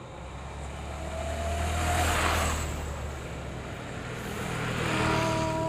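A motor vehicle passing close by: a rushing noise with a low engine hum that swells to a peak about two seconds in and eases off. Near the end it swells again, with a steady pitched tone.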